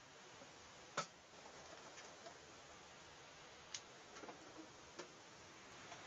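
Near silence: a faint steady hiss with a few scattered light ticks, about five of them, the sharpest about a second in.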